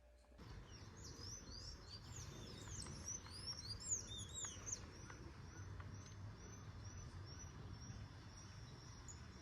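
Faint birdsong. Several birds chirp at once in quick, overlapping rising-and-falling notes in the first few seconds, then one bird repeats a short high chirp about twice a second, over a low, steady rumble.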